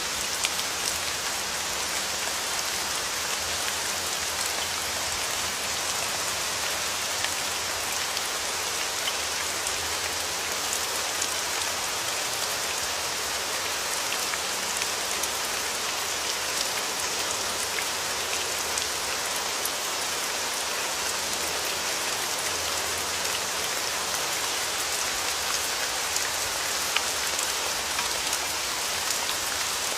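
Steady rain falling, with a constant hiss and many small drop ticks scattered through it.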